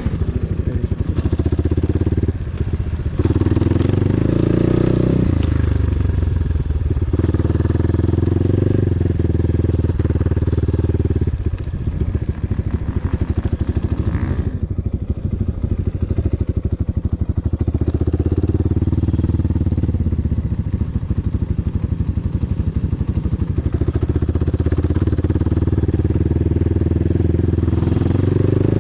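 Enduro motorcycle engine running under throttle, its pitch rising and falling as the rider opens and closes the throttle, with short dips as it backs off a few times.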